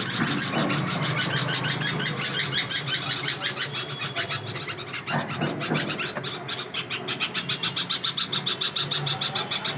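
Small birds chirping, with high notes repeated rapidly in a fast, even run through the second half.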